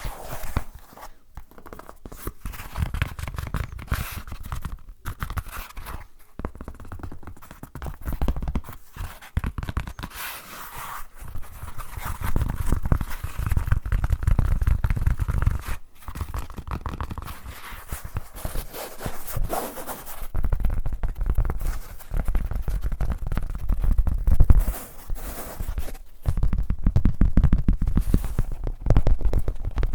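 Rapid scratching and rubbing right against a sensitive microphone, dense with tiny clicks and a deep handling rumble, coming in passages of a few seconds with short breaks.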